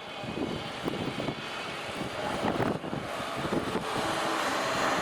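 Electric train on the JR Kisei Line running past at a level crossing: a steady rushing, rumbling noise with uneven knocks that grows louder toward the end.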